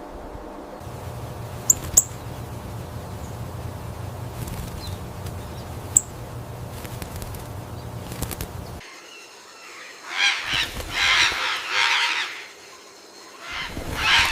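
Steady background hiss with a few sharp clicks, then from about ten seconds in loud bursts of bird sound: flapping wings and harsh squawks, in two stretches of a second or two each.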